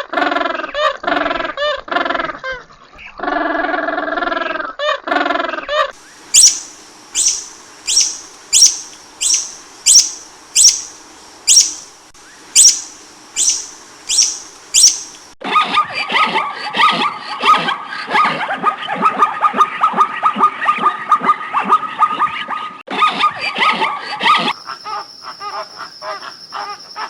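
A run of recorded animal calls: first several wavering, pitched calls, then about a dozen sharp, high chirps in steady succession, then a dense, rapid chatter of many calls. Near the end comes a steady, high whistling tone over quick clicks.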